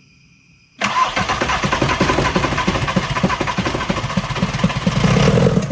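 VW Rabbit pickup's 1.6 diesel engine cranked and catching, running rough with rapid, regular knocking for about five seconds after a sudden start, getting louder near the end and then cutting off. The shaking leads the owner to take the motor mounts for shot.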